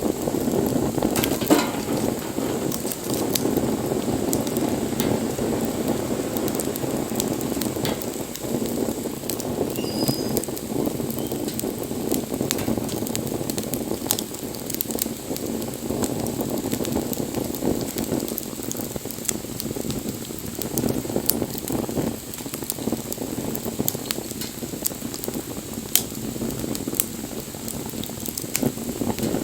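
Bonfire crackling: frequent sharp pops and snaps over a steady low rushing noise.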